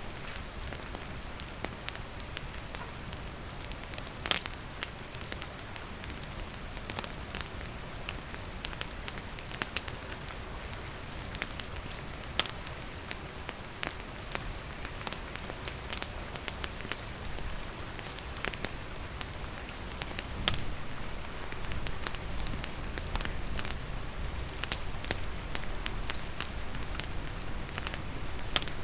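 Steady rain falling, with a wood campfire crackling and popping in irregular sharp snaps, one louder pop about four seconds in and another about twenty seconds in.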